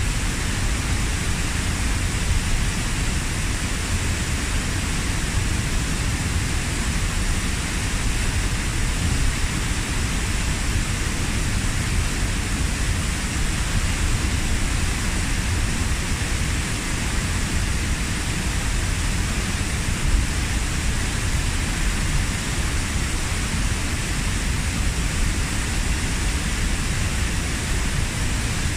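Kozjak waterfall, about 15 m high, pouring into its pool: a steady, unbroken rushing of falling water, heaviest in the low rumble.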